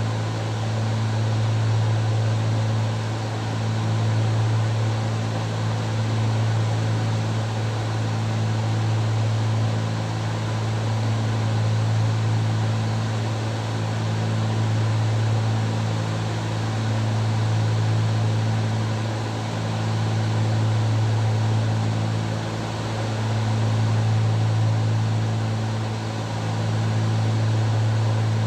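Twin piston engines and propellers of a Cessna 310Q running steadily in flight, a low drone that swells and fades about every two seconds.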